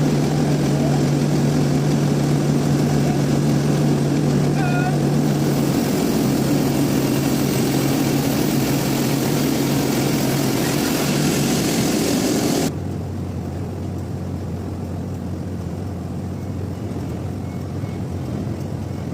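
Sawmill machinery running steadily with a loud, even drone. It cuts off suddenly about two-thirds of the way through and is replaced by a quieter, lower-pitched machine hum.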